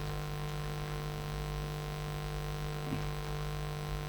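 Steady electrical mains hum in the recording: a constant low drone with a faint buzz of overtones above it.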